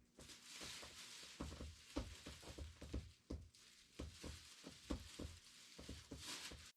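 Faint, soft taps and thuds, a few a second and irregular, over a low hiss.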